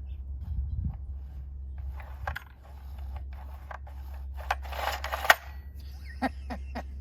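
Scattered plastic-and-metal clicks and a short rasp from the recoil starter of a NeoTec NH895 chainsaw being worked by hand, ending in one sharp loud click about five seconds in; the starter pawls are not engaging the pull cord, so the engine does not turn over. A steady low hum runs underneath.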